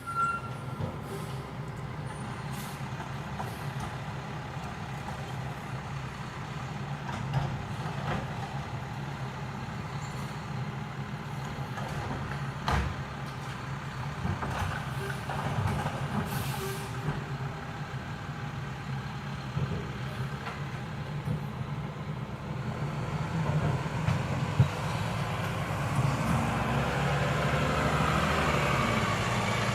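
Mack LEU garbage truck with a Heil Multitask refuse body, its diesel engine running steadily. There is a sharp knock about halfway through and an air brake hiss a few seconds later. Near the end the engine note builds and a rising whine comes in.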